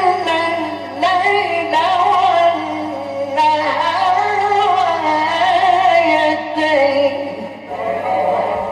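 Mujawwad-style Quran recitation by a male reciter: long melismatic phrases that rise and fall in pitch, with a steady low hum underneath.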